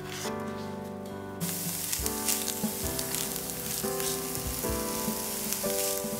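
Chopped onion and garlic sizzling in a non-stick frying pan, the hiss starting about a second in, while a silicone spatula stirs them around the pan. Background music plays throughout.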